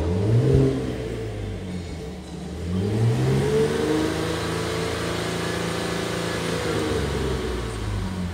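Holden Commodore's 3.6-litre V6 engine revved while stationary in park, heard from inside the cabin. It gives a short blip at the start, then the revs climb about two and a half seconds in, hold steady for about four seconds and drop back toward idle near the end.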